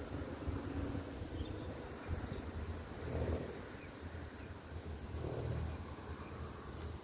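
Riverside outdoor ambience: a low, uneven rumble with insects droning high up in on-off spells of a second or so.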